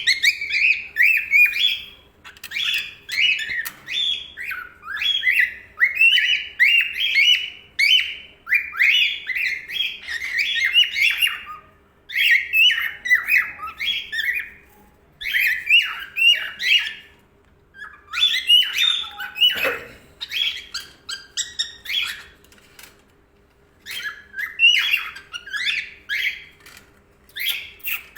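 Young male cockatiel calling: runs of quick, high chirps and squawks, several a second, broken by short pauses.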